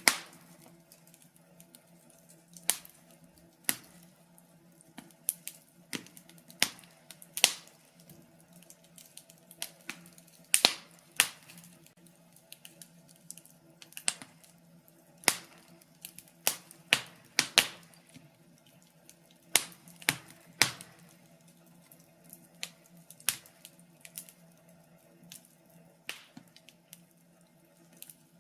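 Fire crackling in a fireplace: irregular sharp pops and snaps, some much louder than others, sometimes several close together, over a faint steady hum.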